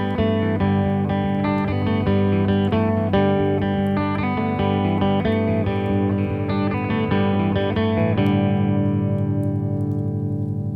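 Guitar picking a slow, repeating melody, then a final chord about eight seconds in that is left ringing and slowly fading, with a slight pulsing.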